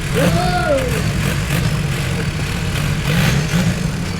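Off-road 4x4's engine running steadily at low revs. A person's voice calls out briefly in the first second.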